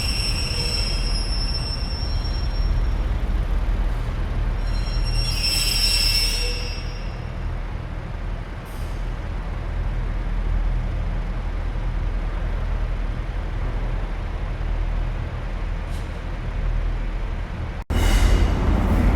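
A Class 185 diesel multiple unit pulling out of the station, its diesel engine giving a steady low rumble. High-pitched wheel squeal rings out at the start and again about five seconds in, lasting a second or so.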